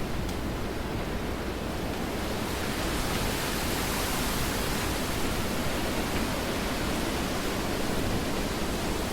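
Steady rainfall, an even hiss that grows brighter and a little louder about two to three seconds in.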